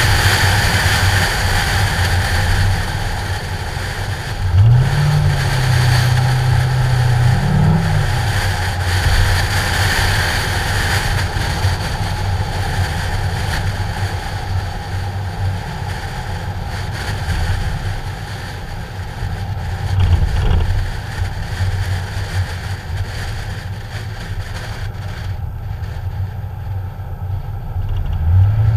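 Ford Mustang engine running as the car drives along, with heavy wind noise on the hood-mounted camera's microphone. The engine note rises about four and a half seconds in, holds for a few seconds, and falls back; it rises again near the end.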